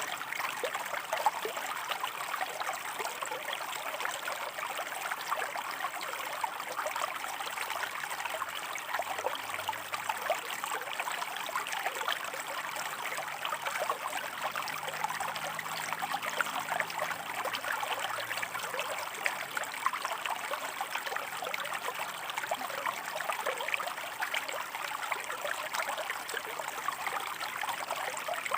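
Shallow stream running over rocks, a steady trickling and babbling with many small splashes.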